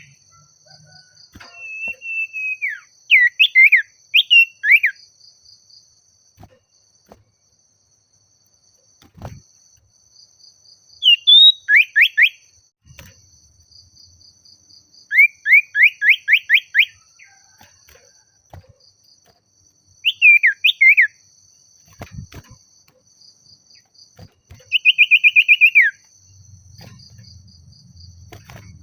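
Common iora (cipoh/sirtu) singing: short bursts of rapid whistled notes, each note sweeping downward, repeated every few seconds. Behind it is a faint, steady high insect-like trill.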